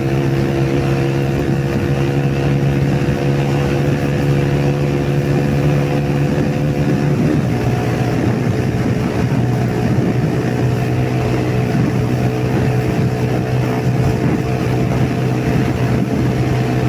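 Yamaha YBR125's single-cylinder four-stroke engine running hard at high speed, with wind rushing over the microphone. The engine note changes about seven seconds in, then holds steady.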